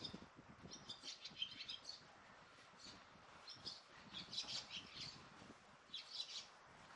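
Small birds chirping faintly in several quick bouts of high notes, about a second in, again near the middle and once more near the end.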